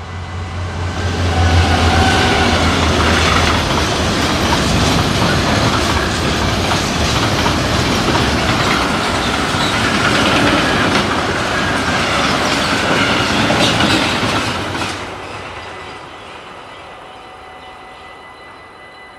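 Freight train of covered wagons passing through a level crossing: loud rolling noise with wheels clattering over the rail joints, a low drone at the start as the locomotive goes by, and the train noise dying away after about fifteen seconds. Underneath, the crossing's warning bell rings steadily.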